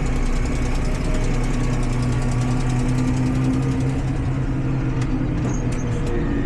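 Tractor engine running steadily at an even pitch, easing off slightly near the end.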